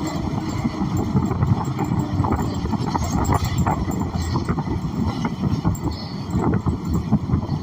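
Inside a New Flyer XN40 city bus on the move: the Cummins Westport ISL G natural-gas engine and road rumble, with frequent short rattles from the cabin.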